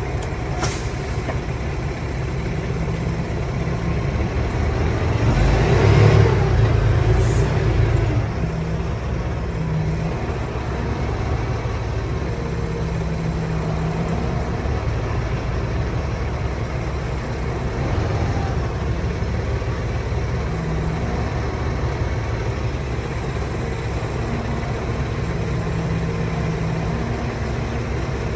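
Semi truck's diesel engine running at low speed while the rig reverses, with a brief rev about six seconds in.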